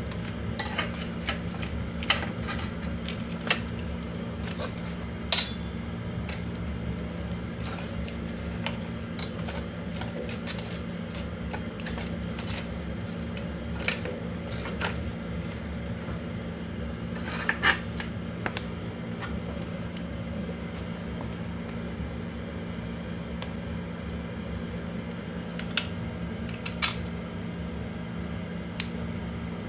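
Oak firewood burning in the firebox of a wood-fired boiler, crackling with irregular sharp pops. A few pops are louder than the rest, over a steady low hum.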